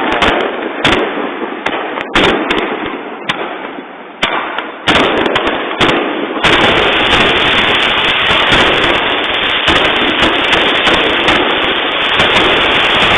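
Fireworks display: a string of separate sharp bangs from bursting shells, each trailing off in an echo, for about six seconds, then a dense, unbroken barrage of crackling bursts.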